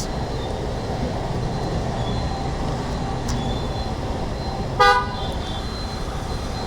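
A vehicle horn gives one short toot about five seconds in, over a steady low rumble of road traffic.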